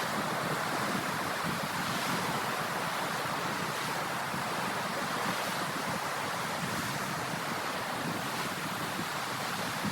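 Ocean waves washing onto the shore, a steady, unbroken surf noise.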